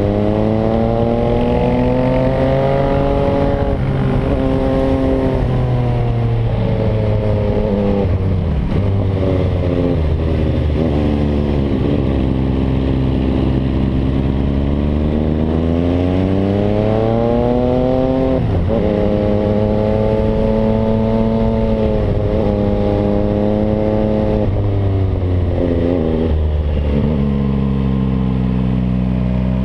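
MV Agusta Brutale 800's inline three-cylinder engine through an aftermarket Zero exhaust, pulling on the move. The note rises steadily and falls slowly, with sudden pitch drops about four seconds in, around nine and eleven seconds, halfway through and near the end, as the bike changes gear or rolls off and back on the throttle.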